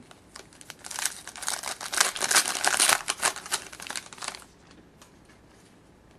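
A sealed trading-card pack's wrapper being torn open and crinkled by hand, a dense crackling run lasting about four seconds, then a few faint ticks as the cards are handled.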